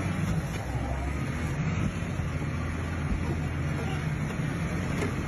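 A vehicle engine runs with a steady low hum, over a wash of road traffic noise.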